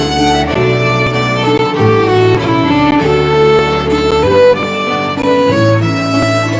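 Fiddle-led band music: a violin playing a melody over accompaniment, with a bass line stepping from note to note.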